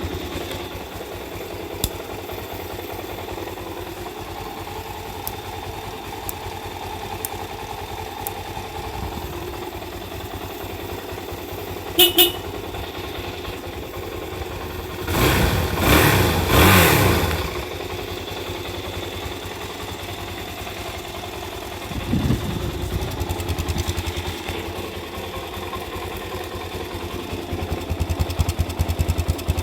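Suzuki DR-Z400S single-cylinder four-stroke engine idling through its stock muffler, with a short double beep about a third of the way in, two quick throttle blips around the middle and a smaller one later.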